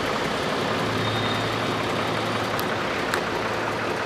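A motor vehicle engine running steadily, with a low hum that comes up about a second in. Two sharp clicks follow, a little over half a second apart, in the second half.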